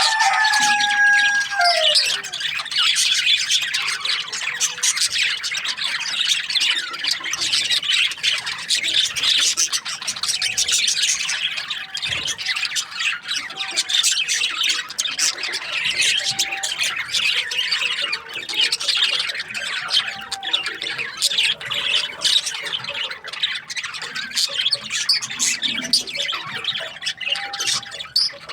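A colony of budgerigars chattering and chirping continuously, many short high squawks and warbles overlapping, with one longer steady call near the start that falls away at its end.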